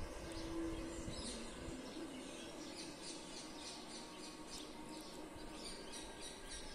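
A bird calling in a fast series of short, high notes, about three a second, starting about a second in, over a faint low outdoor rumble.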